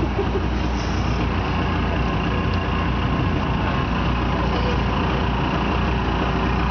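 Motorboat engine running steadily under way, a constant low hum with the rush of the boat moving through the water.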